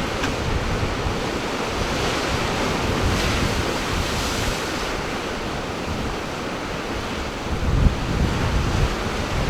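Ocean surf washing in, swelling about halfway through, with wind buffeting the microphone in low rumbles near the end.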